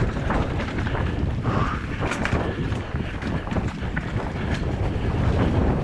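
Wind buffeting the microphone with a heavy low rumble, with scattered sharp clicks and knocks through it.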